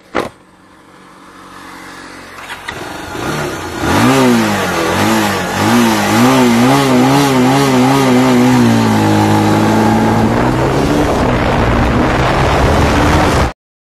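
Motorcycle engine accelerating hard during an acceleration run, after a sharp click at the start. Rushing noise builds for a few seconds, then the engine note comes in loud. Its pitch wavers quickly up and down several times, then holds steady before cutting off abruptly.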